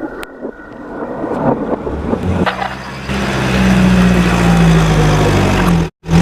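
Light clicks and knocks, then about two and a half seconds in a steady engine-like drone starts and runs loud and even. It breaks off for a split second near the end and resumes at once.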